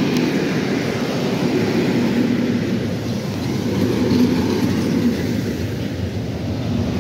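Electric multiple unit train passing close by at speed: a steady rumble of wheels on the rails, with a low hum that swells and fades a few times.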